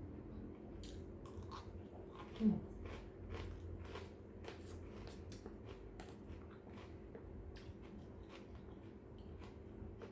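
Close-up eating sounds: chewing and biting fried rice, with many small scattered clicks. A short falling hum about two and a half seconds in is the loudest moment.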